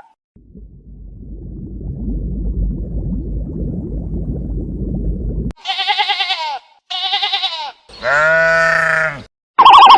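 A low rumbling noise for about five seconds, then sheep bleating three times: two short bleats and a longer, deeper one.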